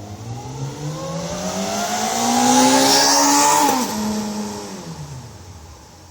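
2001 Honda CBR600 F4i inline-four sport bike on its stock exhaust, passing by. The engine note climbs as the bike accelerates in a low gear and is loudest around three seconds in. Its pitch then drops sharply as it goes past, and it fades away.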